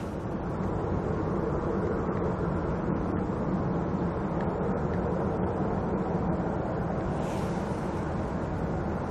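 Steady rumble of a jet airliner's engines.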